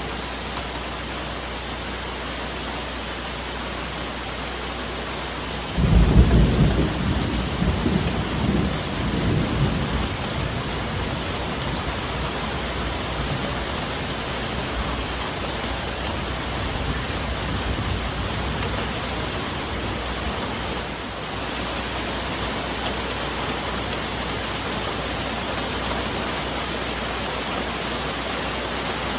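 Steady rain falling on forest foliage, with a sudden loud crack of thunder about six seconds in that rumbles away over the next few seconds.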